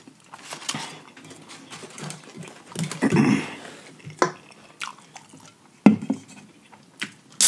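Close-miked chewing of a fried chicken sandwich, with wet lip-smacking and small mouth clicks. There is a sharp knock about six seconds in.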